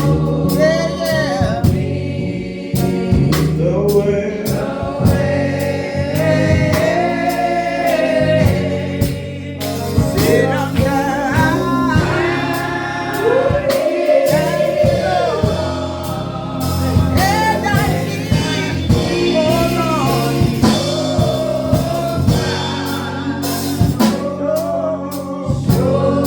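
Gospel music: voices singing together over sustained low chords from keyboard or organ, with drum hits throughout.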